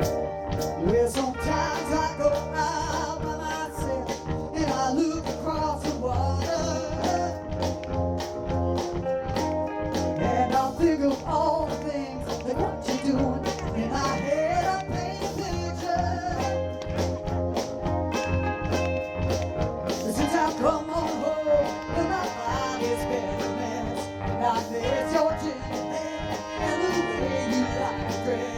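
Live soul band playing a song: drums keeping a steady beat under bass, held chords and a wavering lead melody line.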